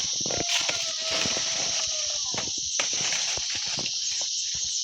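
Steady high-pitched drone of insects, with the rustles and clicks of squash vines and leaves being handled as the fruit is picked.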